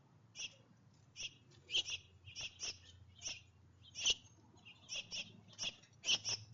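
A bird chirping over and over, short sharp chirps about two a second, steady throughout.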